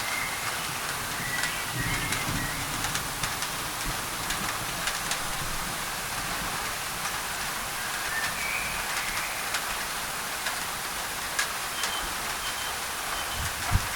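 Steady rain falling on a thin tin roof, blended with white noise, with scattered sharper drop hits. A few short bird chirps come at the start, about eight seconds in, and near the end.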